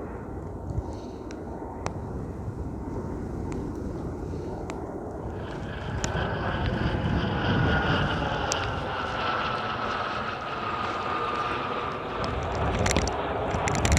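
An airliner passing: engine whine that grows louder about five seconds in and slides slowly down in pitch. Underneath are wind rumble and buffeting on the microphone.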